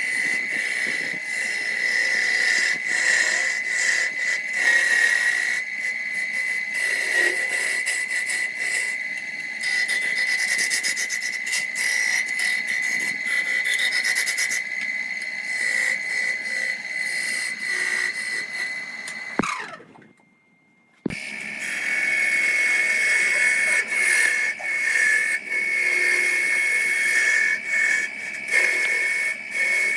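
Electric power tool with a steady high-pitched motor whine, working on wood with a rough rubbing noise. About 19 seconds in it is switched off and its pitch falls as it winds down; after a second or so of near silence it starts again at full speed.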